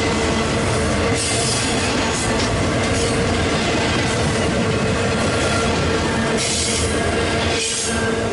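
Union Pacific double-stack container train's well cars rolling past: a steady rumble and rattle of wheels on rail, with a held squealing tone from the wheels.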